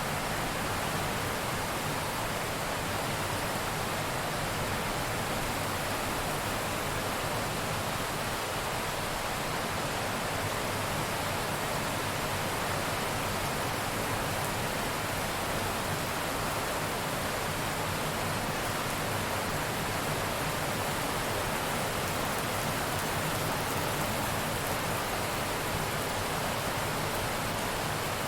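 Heavy rain falling steadily, an even hiss with no change in level.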